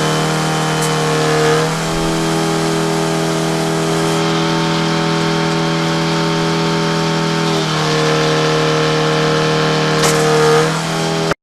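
An engine running steadily at high speed, its tone shifting briefly about a second and a half in and again from about eight to ten and a half seconds in, then cut off suddenly at the very end.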